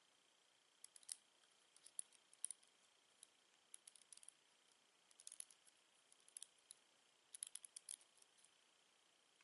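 Lego bricks clicking and tapping as they are handled and snapped together: scattered sharp plastic clicks in small irregular clusters, with a faint steady high tone under them.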